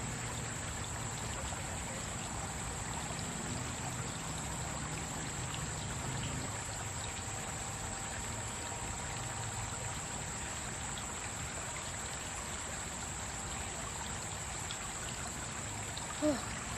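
Stream water running with a steady, even trickle.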